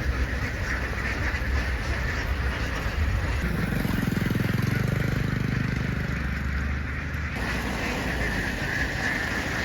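A vehicle engine running, with a louder engine note for about four seconds in the middle. A constant chatter from a large flock of ducks goes on underneath.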